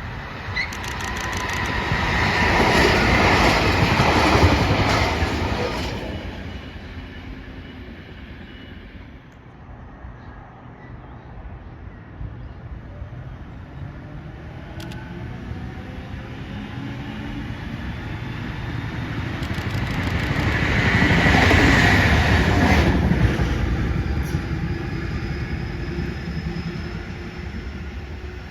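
Two trains pass in turn on the line through Doonside. Each rises to a loud rush of wheels and running gear and then fades, one early on and the other about twenty seconds in, with a quick run of evenly spaced wheel clicks over rail joints as each draws near.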